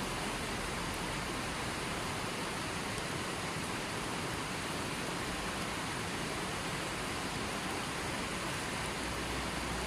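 A river flowing: a steady, even rush of moving water with no breaks.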